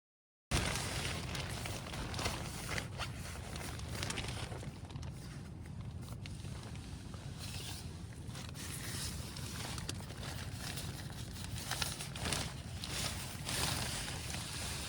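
Wind rumbling on the microphone, with rustling and crackling throughout.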